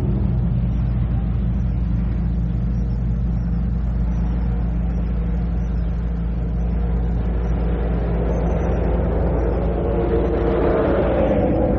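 A motor vehicle's engine running steadily as a low hum, swelling louder about ten seconds in, heard on a muffled old cassette recording.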